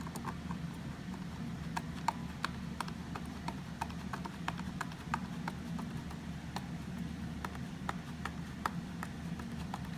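Small irregular clicks, a few a second, as screws are tightened with a screwdriver to fasten the left wheel module of a Roomba 880, over a steady low hum.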